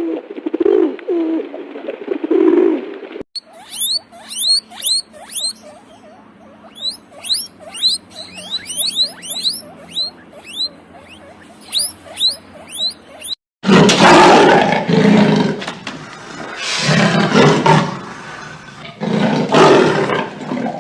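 A run of animal calls: low cooing for the first few seconds, then many quick, high, upward-sweeping chirps, then about three loud, long roars from a large animal near the end.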